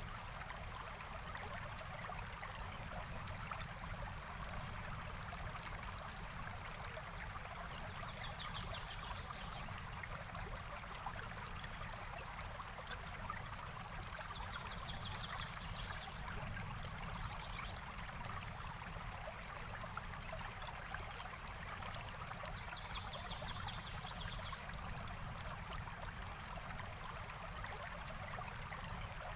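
Forest stream flowing steadily, a constant rush of water. A bird's short, rapid trill sounds four times over it, at intervals.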